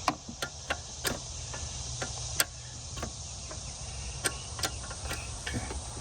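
Irregular sharp clicks and taps from hand tools and parts being worked under a car's dashboard to free the brake booster, about a dozen spread unevenly, over a steady high chirring of insects.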